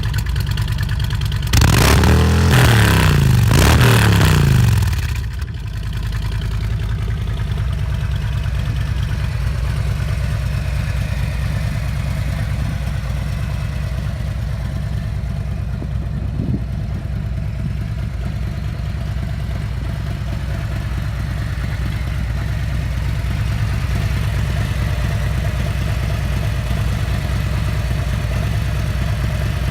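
Harley-Davidson Street Glide's Milwaukee-Eight V-twin running through a Rinehart Racing Slimline full exhaust. It idles, is revved once for about three seconds a couple of seconds in, drops back, and then settles into a steady idle.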